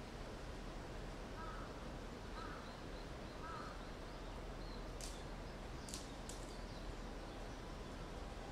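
Quiet outdoor ambience: a steady faint hiss with a few short, faint bird calls, then three sharp clicks close together about halfway through.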